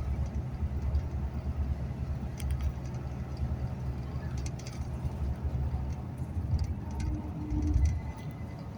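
Steady low engine and road rumble heard from inside a moving bus, with light rattles and clicks now and then.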